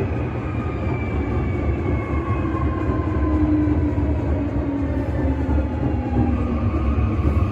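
8300 series electric train's VVVF inverter and traction motors whining, an unusual-sounding inverter, over the rumble of the running train. Several tones slide slowly down in pitch together as the train slows.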